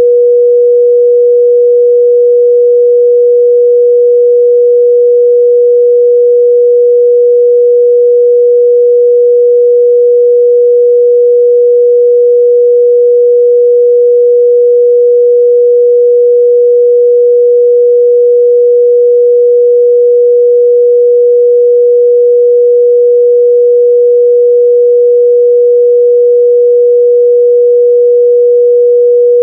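Steady 484 Hz pure sine test tone, one unchanging pitch held at a constant loud level, used to check a speaker's or headphones' midrange response.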